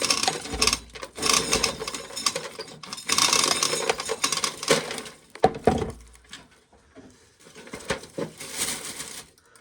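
Dry shelled corn kernels and cobs rattling and rustling as they are handled by hand, in uneven bursts with short pauses.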